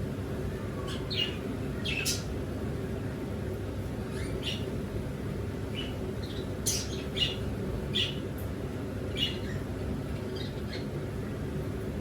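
Caged pet birds giving short chirps and squawks, scattered irregularly about once a second, over a steady low hum.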